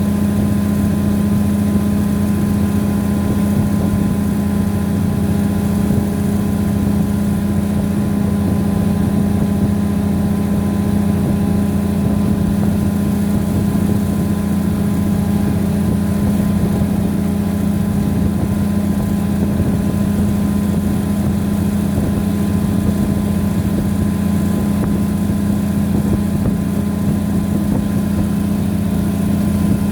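Diesel train engine running steadily, a constant low hum with no change in pitch.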